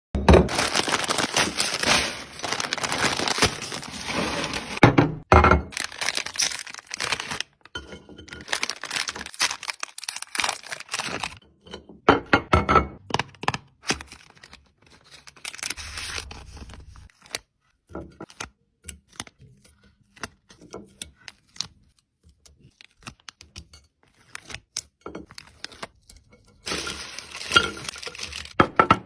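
Snack packets being torn open and crinkled, with crisps and sweets tipped out into dishes: irregular bursts of crackling plastic rustle and small clicks and knocks, with quieter pauses between them.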